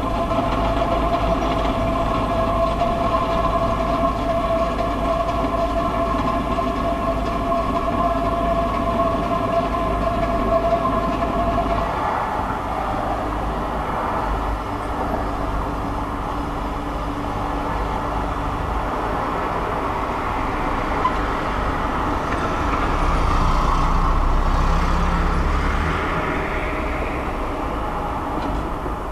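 Unexplained outdoor drone, the 'strange sound' over the city: a continuous low rumble with steady high whining tones that fade out about twelve seconds in, then a broader rumble that swells louder a little past twenty seconds. Recorded on a mobile phone held out of a window.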